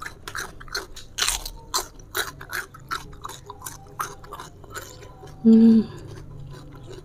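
Close-miked chewing and crunching of raw bitter melon (pare), a rapid run of crisp, watery bites. About five and a half seconds in comes a brief hummed "mm".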